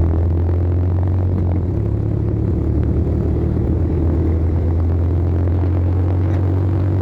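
Izh-49 motorcycle's single-cylinder two-stroke engine running at a steady speed, a loud, even, low-pitched drone.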